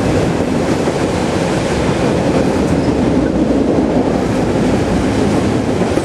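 Autorack freight train rolling past: a steady, loud rumble of steel wheels on the rails.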